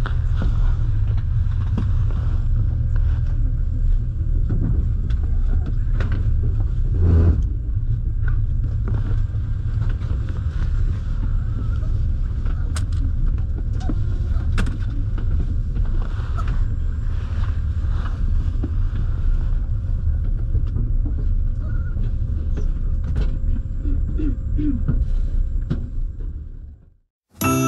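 Double-decker passenger train running, heard from inside the car: a steady low rumble with a faint constant hum and scattered clicks and knocks from the wheels and carriage. The train noise cuts off just before the end.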